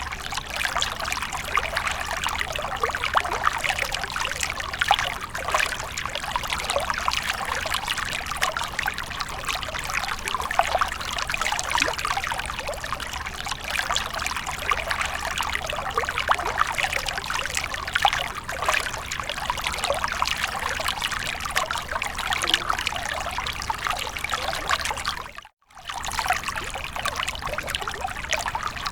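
Water fountain splashing and trickling steadily, falling water pouring into a basin, with a brief gap of silence about 25 seconds in.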